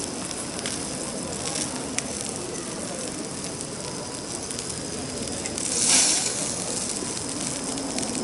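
Fire crackling and hissing, with scattered sharp crackles and a louder surge of hiss about six seconds in.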